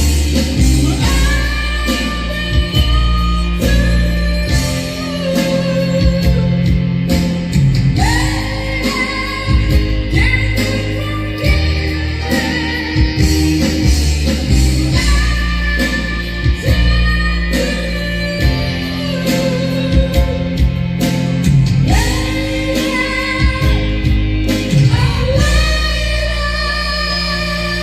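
A singer holding long notes with vibrato in a slow song, over guitar accompaniment.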